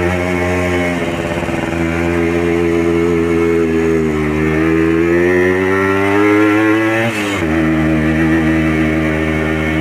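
Yamaha RX Special's stock 115 cc two-stroke single-cylinder engine running through an original RX King exhaust while riding. Its pitch climbs steadily for about three seconds, then drops sharply about seven seconds in as the bike shifts up.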